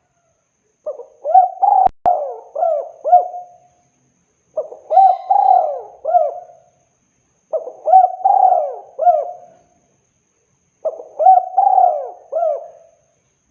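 Spotted dove (tekukur) cooing: four phrases of several arching coo notes each, a few seconds apart. A single sharp click comes during the first phrase.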